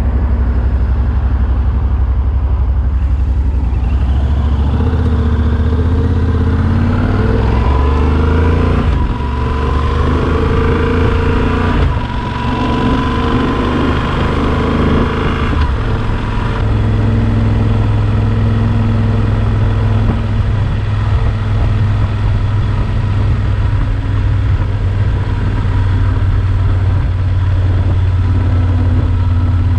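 Yamaha Super Ténéré XT1200's parallel-twin engine under way, revving up and shifting through the gears for a stretch mid-way, then settling to a steady cruise.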